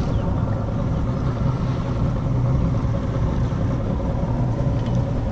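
A boat's motor running steadily at low speed, a continuous low hum.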